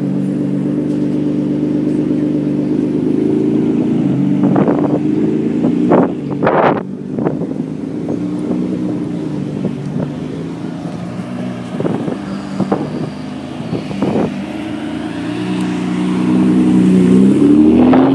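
Car engines running at low revs in slow traffic, with several short sharp blips about four to seven seconds in and again later, and an engine revving up near the end as a sports car pulls past.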